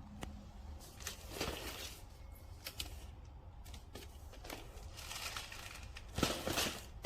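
Product packaging being handled: rustling and crinkling with scattered small clicks and knocks, the loudest swishes near the end.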